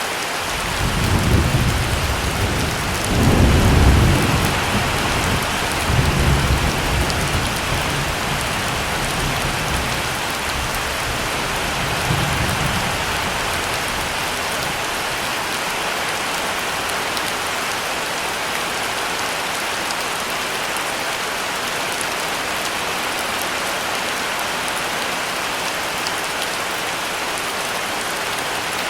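Heavy rain falling steadily as an even hiss, with a roll of thunder starting about a second in, loudest around four seconds, and rumbling away in fading swells over the next ten seconds.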